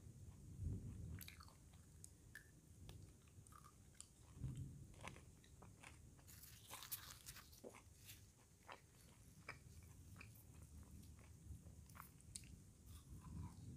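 Quiet close-up chewing and biting of food, with many small wet mouth clicks; a short run of crisp crunching comes a little past halfway.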